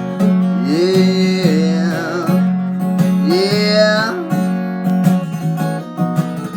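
Acoustic guitar strumming a country-style accompaniment, with two long sliding melody phrases over it, the second ending about four seconds in.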